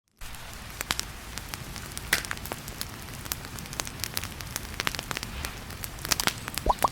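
Wood fire crackling in a fireplace, with sharp, irregular pops over a steady hiss of heavy rain. A few louder pops come near the end.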